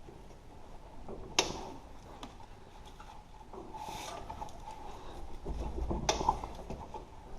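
Two sharp metal clanks, one about a second in and one about six seconds in, with faint rattling between, as a snowblower's PTO driveline coupler is pushed onto the tractor's splined rear PTO shaft and the splines do not line up.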